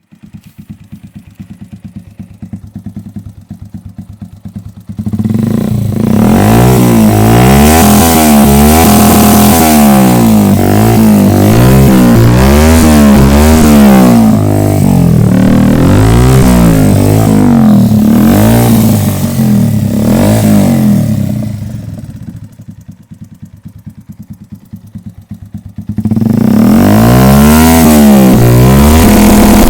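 150cc motorcycle engine idling, then revved hard over and over in quick rises and falls, dropping back to idle for a few seconds and then revved again near the end. It is set up to sound like a 1000cc bike.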